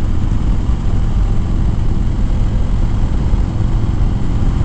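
Harley-Davidson V-twin motorcycle engine running at a steady road speed, heard from the rider's seat together with a heavy rumble of wind on the helmet microphone.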